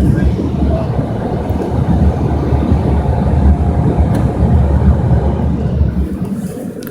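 Automatic car wash machinery running, heard from inside the car: a loud, steady low rushing noise that cuts off about six seconds in.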